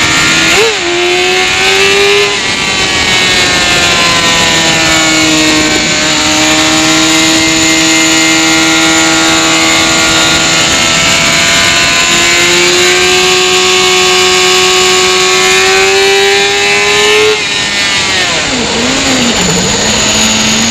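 Motorcycle engine at speed on track with wind rushing past. The note climbs in long pulls, broken by quick gear changes. About three-quarters of the way through it drops away, with a few short rises and falls as the bike slows and changes down.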